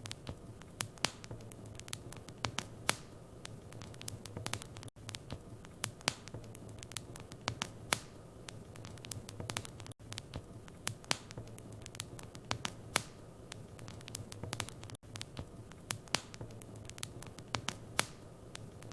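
Wood fire in a fireplace crackling, with irregular sharp pops and snaps over a steady low hum of the flames.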